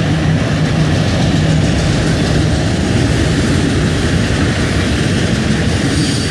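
Freight train cars (autoracks and boxcars) rolling past close by: a loud, steady rumble of steel wheels on the rails.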